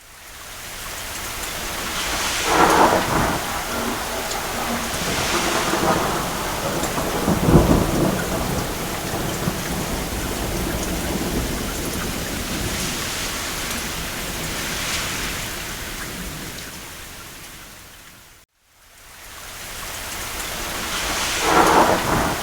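Steady rain with rolling thunder. Several rumbles swell out of the rain, the deepest and loudest about seven or eight seconds in and another near the end. About eighteen seconds in the sound cuts out briefly and fades back in, like a loop or edit seam in the recording.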